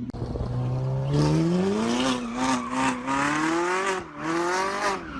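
Car engine revving hard under acceleration, its pitch climbing steeply, then dropping sharply about four seconds in at a gear change before climbing again.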